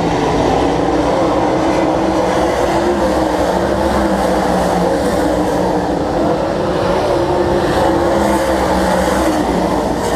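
Stock car engines running together in a steady, loud drone, their pitches wavering slightly as the cars circle the track.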